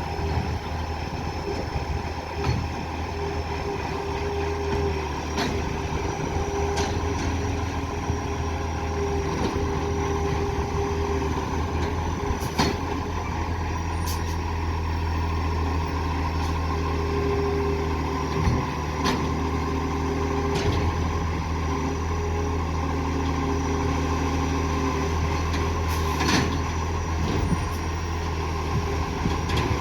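Garbage truck's diesel engine running steadily with a low, even hum, through an exhaust leak. A few sharp clicks or knocks come at scattered moments.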